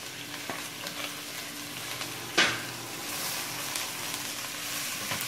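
Salted fish frying with onion and garlic in a stainless steel pot, sizzling steadily while a spatula stirs and scrapes it. One sharp knock about two and a half seconds in, and the sizzle grows a little stronger in the second half.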